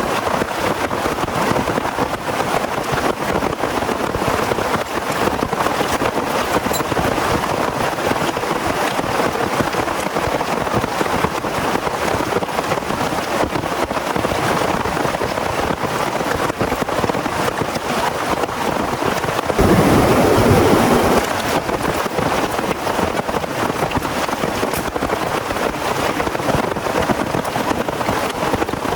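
Heavy rain falling steadily. About two-thirds of the way in, a louder low rumble lasts about two seconds.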